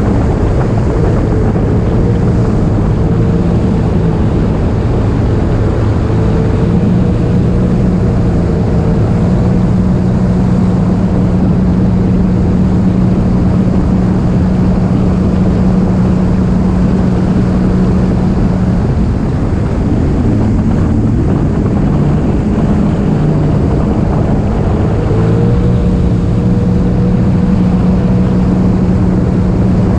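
Jet ski engine running steadily at speed, its pitch holding, then wavering and dropping for several seconds about two-thirds of the way through before settling back to the same steady note.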